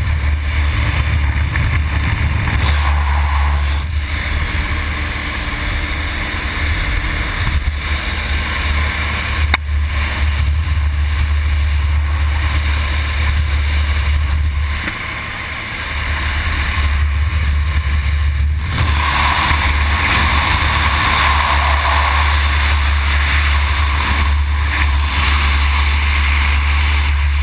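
Heavy wind buffeting the microphone during a static-line skydive, a deep steady rumble under a rushing hiss. It eases briefly about fifteen seconds in, then comes back.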